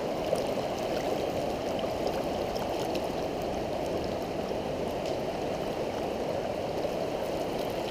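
Fast-running river in flood rushing steadily over rapids.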